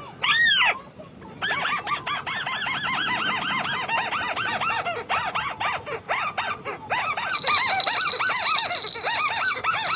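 White-browed crakes calling: a fast, chattering run of repeated rising-and-falling notes that follows a single call near the start. A steady high tone joins about seven seconds in.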